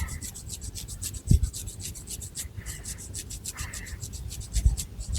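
Long fingernails scratching through thick hair on a scalp: a fast, continuous run of short, raspy strokes, with a few dull bumps, one about a second and a half in and more near the end.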